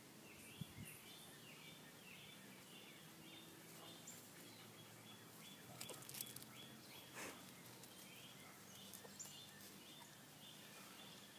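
Faint outdoor ambience: a small animal repeating a short high chirp, about two times a second, with a few faint clicks.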